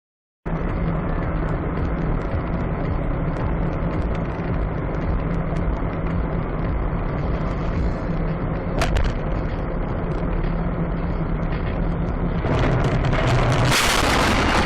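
Car running on the road, a steady engine hum with road noise, cutting in abruptly about half a second in. A sharp click comes about nine seconds in, and the noise grows louder from about twelve and a half seconds, with a loud rushing burst near the end.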